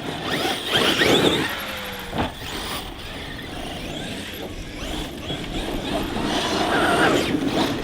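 Large electric RC monster trucks running, with the whine of their motors and tyre noise.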